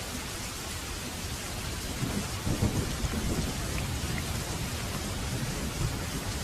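Heavy rain falling steadily, with a low roll of thunder that builds about two seconds in, peaks briefly and rumbles away.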